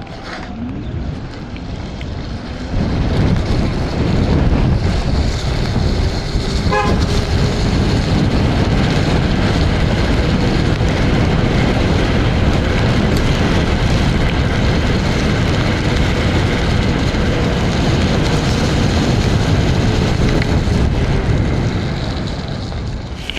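Wind rushing over a helmet-mounted microphone on a fast-moving electric scooter, mixed with tyre noise on a wet road. The noise grows louder about three seconds in, holds steady, and eases near the end.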